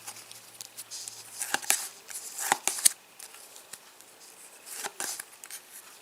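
Match Attax trading cards being handled and flicked through one by one: a series of short, sharp card snaps and slides, with a few louder snaps about a second and a half to three seconds in and again near the end.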